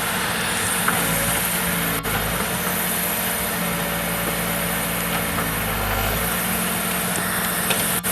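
Diesel engine of a heavy earthmoving machine running steadily with a low, even hum.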